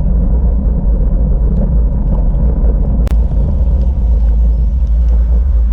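Wind buffeting the microphone of a camera on a moving bicycle: a steady low rumble, with a single click about three seconds in.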